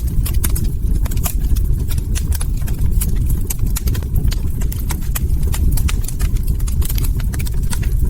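Log fire crackling: many sharp, irregular pops and snaps over a steady low rumble.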